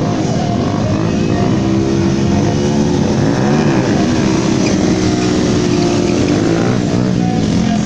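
Motorcycle engines revving up and down repeatedly during stunt riding, the pitch rising and falling every second or so.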